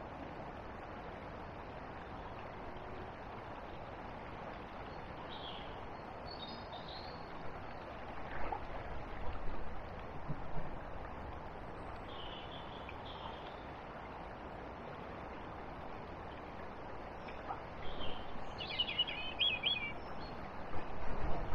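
Outdoor riverside ambience: a steady hiss of wind and water with small birds calling, a few short high chirps and then a brief, louder twittering phrase near the end. The background noise swells twice.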